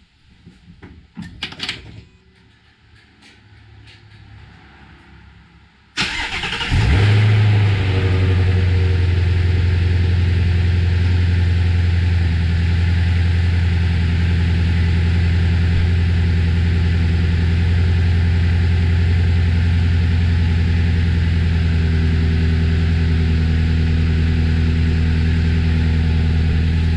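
A Ford Mustang Shelby GT350R's 5.2-litre flat-plane-crank V8 starts about six seconds in: a brief crank and a flare of revs, then it settles into a steady idle. This is the first start after the flex-fuel kit's fuel lines and harness were fitted, and the engine runs. Before the start come a few knocks and clicks.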